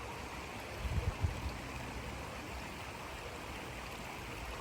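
River water flowing steadily, a constant rushing hiss, with a few short low thumps about a second in.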